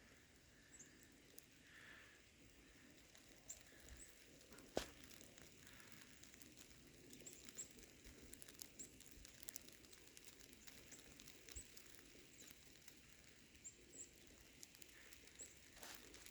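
Near silence, with faint scattered ticks and one sharper click about five seconds in.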